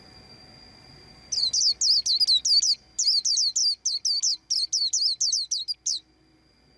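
White-eye singing a fast run of high, twittering chirps that starts about a second in, pauses briefly, and stops about a second before the end. A faint steady high tone sits under it before and after the song.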